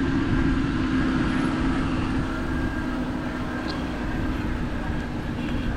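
A vehicle engine running steadily, with a low rumble and a constant hum.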